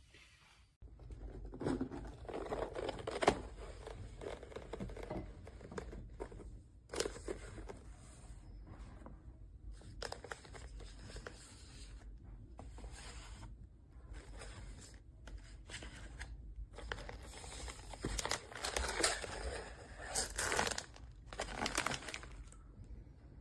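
Plastic packaging crinkling and tearing as it is handled, in irregular bursts with scattered clicks and knocks.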